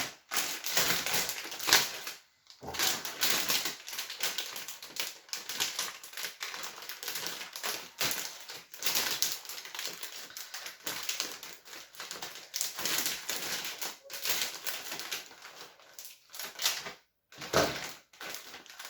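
Cardboard jigsaw puzzle pieces of an eeBoo 500-piece puzzle being handled, a dense run of small clicks and rattles with a couple of brief pauses.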